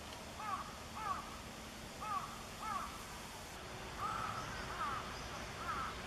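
A bird calling over and over, short clear notes that curve downward in pitch, about one every half second to a second.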